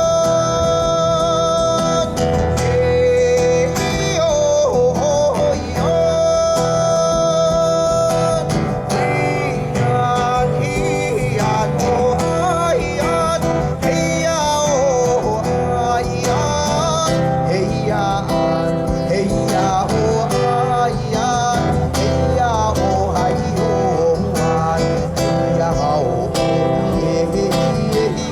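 A man singing a traditional Taiwanese Indigenous tribal song over strummed acoustic guitar, holding some long notes and bending the pitch on others.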